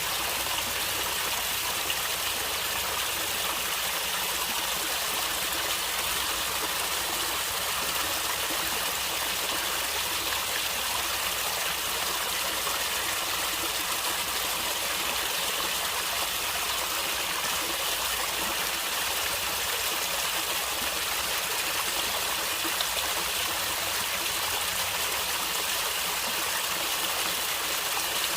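Steady rush and gurgle of a stream of flowing water, with no breaks or changes.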